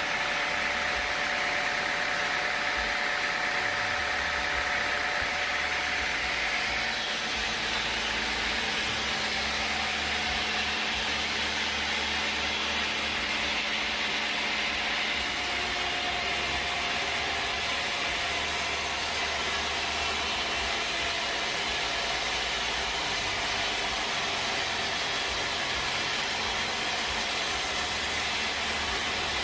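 Sawmill machinery running steadily, a continuous mechanical noise whose tone shifts about seven seconds in and again about halfway through.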